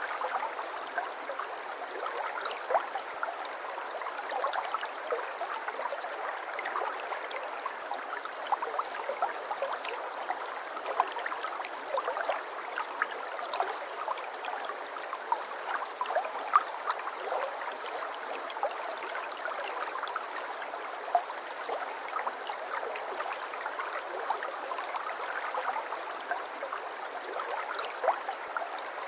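Shallow brook babbling: a steady wash of running water flecked with many small splashes and gurgles.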